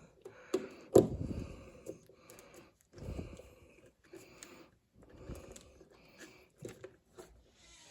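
Light clicks and scraping of a small screwdriver and hands working on a thermostat's wire terminal screws, with one sharper click about a second in.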